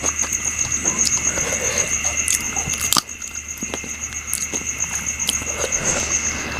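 Close-up chewing and mouth sounds of a person eating, with irregular small smacks and clicks and one sharper click about three seconds in. A steady high pulsing tone runs underneath.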